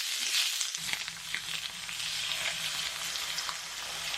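Food sizzling and crackling in a hot frying pan, a steady hiss with scattered small pops.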